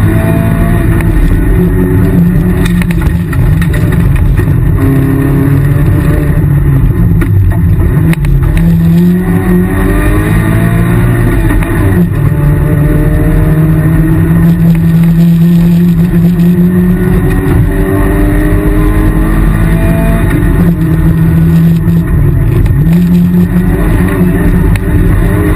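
Rally car engine heard loud from inside the stripped cockpit, revving up and dropping back again and again as the car accelerates and shifts gears, over heavy road and drivetrain rumble.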